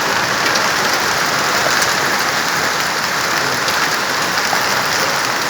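Heavy rain falling in a steady downpour, an even hiss of drops hitting the ground.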